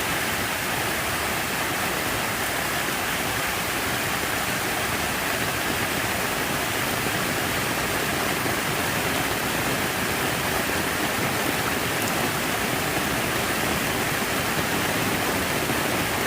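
Steady rushing of falling water, an even unbroken wash with no rhythm or change.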